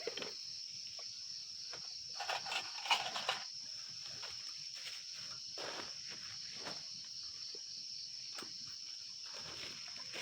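Insects calling in one steady, high-pitched drone. A few rustles and knocks from handling gear come about two to three seconds in.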